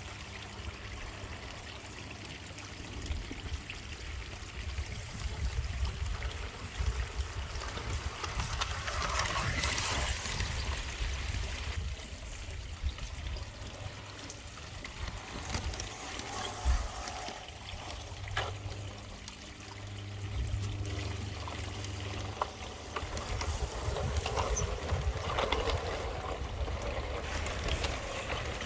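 Water trickling steadily, over a low rumble, with a few sharp clicks.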